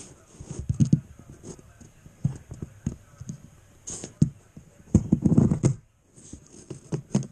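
Irregular handling noises of HO-scale track pieces and their packaging: scrapes, rustles and soft knocks, with a busier stretch about five seconds in.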